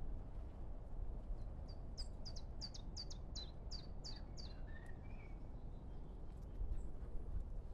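A small bird singing: a run of about a dozen quick, high notes, each sliding downward, a few a second, ending about four and a half seconds in. A steady low outdoor rumble lies under it.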